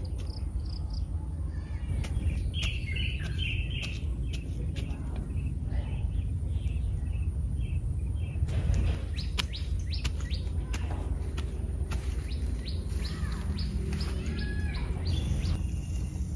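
Birds chirping in short, repeated notes over a steady low rumble, with scattered clicks and knocks.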